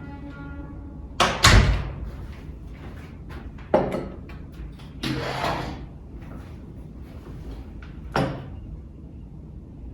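A few separate knocks and clatters of things being handled, like a drawer, cupboard or dish being moved. The loudest comes about one and a half seconds in, with lighter knocks near four and eight seconds and a short scraping rustle around five seconds.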